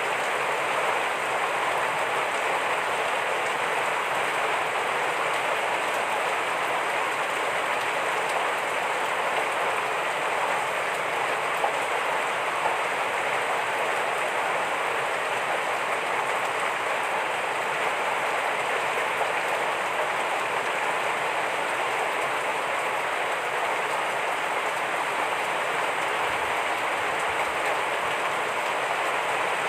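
Heavy rain falling steadily: a dense, even hiss of countless drops with no let-up.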